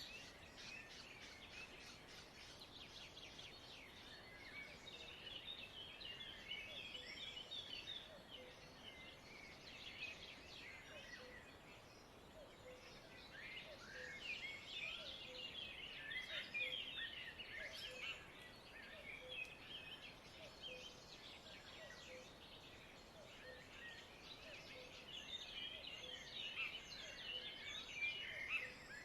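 Many small birds chirping and twittering together in a dense, overlapping chatter, with a faint low note repeating about once a second beneath it.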